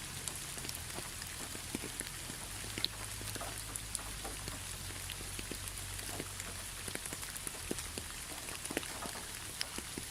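Steady rainfall: an even hiss of rain with individual drops landing as irregular sharp taps, over a steady low rumble.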